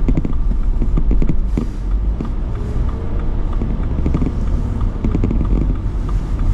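Car running on the road, heard from inside the cabin: a steady low rumble of engine and tyre noise.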